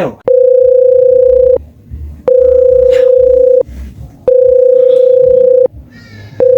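Telephone ringback tone: a steady mid-pitched beep, about a second and a quarter long, repeating every two seconds, four times, as an outgoing call rings before it is answered.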